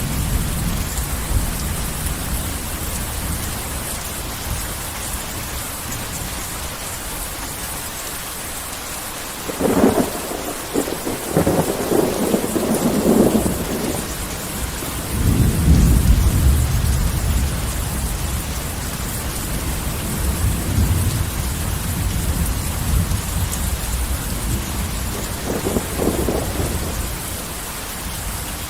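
Heavy rain falling steadily through a thunderstorm. About ten seconds in a thunderclap cracks, crackles for a few seconds and rolls into a deep rumble. A smaller rumble comes near the end.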